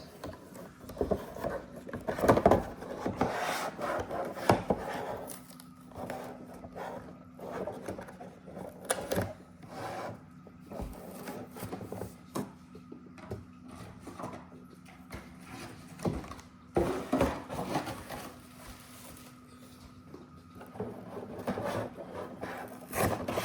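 Cardboard-and-plastic toy truck packaging being worked open by hand: irregular rubbing and scraping with scattered clicks and knocks.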